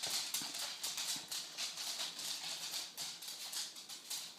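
A dog's claws clicking and scrabbling quickly on the floor, several a second, as it spins after its own tail.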